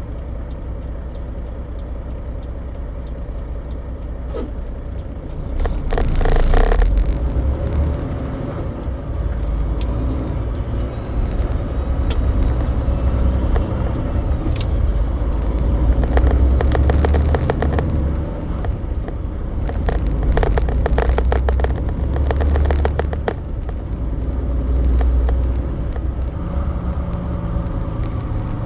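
Semi truck on the road, heard from the cab: a steady low engine and road rumble that grows louder about six seconds in, with several spells of rapid rattling or clicking.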